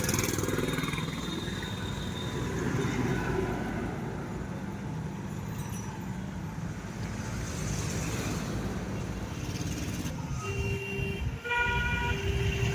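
A vehicle engine running steadily. From about ten seconds in, a horn honks in several blasts near the end.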